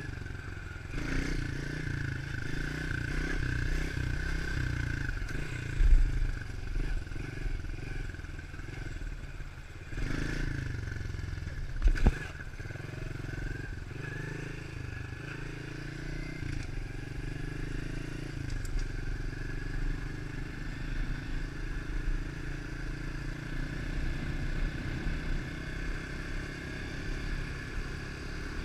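110cc four-stroke pit bike engine running while being ridden, its note shifting up and down with the throttle. Two sharp thumps stand out, about six and about twelve seconds in.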